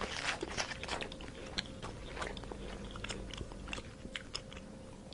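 A small animal crunching and chewing food: a run of irregular crisp crunches, thicker at first and thinning out near the end.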